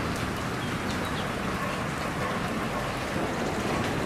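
Steady rain falling on tree leaves: an even hiss with a few faint drip ticks.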